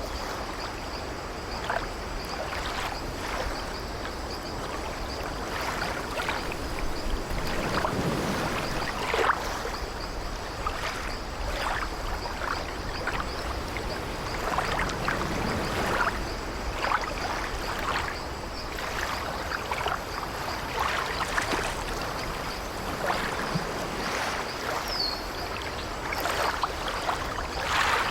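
Sea waves washing and splashing against an old wooden ship: a steady wash of water broken by frequent short splashes.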